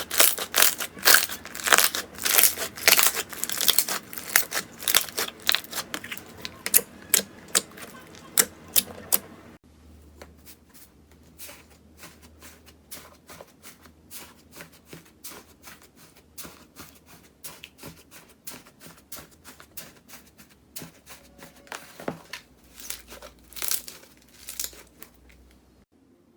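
Slime being squeezed and worked by hand, with dense crackling and popping clicks. About a third of the way in it changes abruptly to a quieter, sparser run of small pops and squishes.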